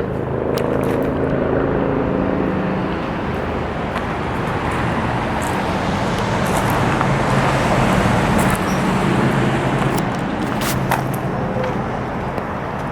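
Road traffic: a passing vehicle's engine and tyres, growing louder toward the middle and fading near the end.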